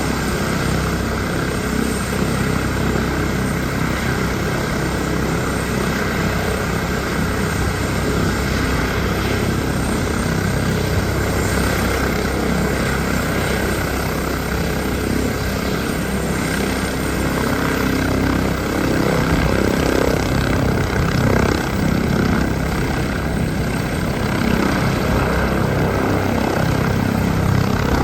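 Rescue helicopter running, its turbine and rotor noise steady and loud, growing somewhat louder about two-thirds of the way through.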